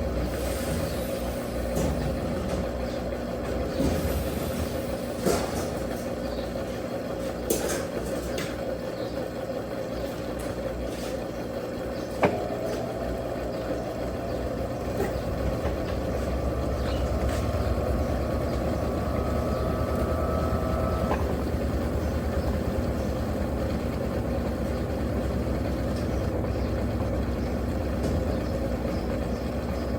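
Electrolux Turbo Capacidade Premium 15 kg top-loading washing machine running through its wash cycle: a steady motor hum with a few sharp knocks. A faint rising whine is heard for several seconds in the middle.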